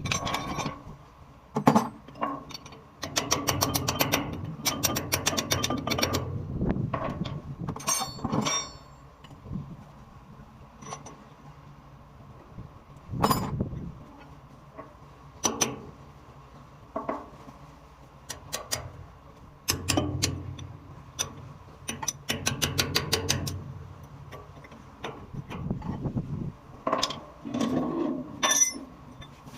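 Metal hand tools clinking and knocking on hydrant fittings during repair work, with a few runs of rapid clicking.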